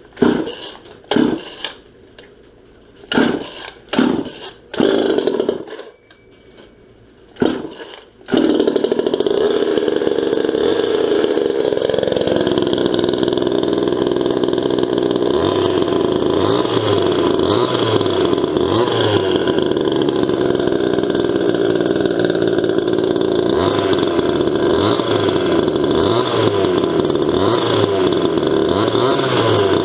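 Ported 38cc two-stroke engine of a 1977 Poulan Micro XXV chainsaw being pull-started: several short bursts from pulls on the starter cord, then it catches about eight seconds in and keeps running steadily.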